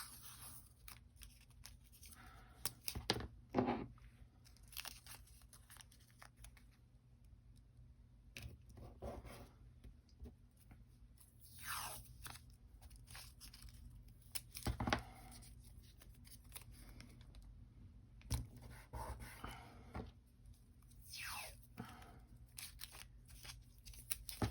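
Tape pulled off the roll and torn into strips, several separate short tears spread out, with faint crinkling of paper and tape being pressed down in between.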